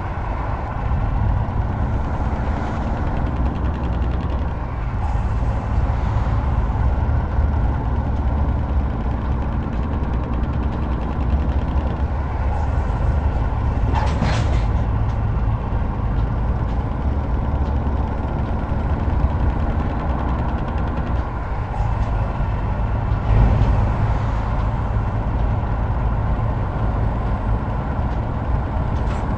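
Heavy truck's diesel engine running steadily on the road, a constant low rumble. A brief hiss about halfway through.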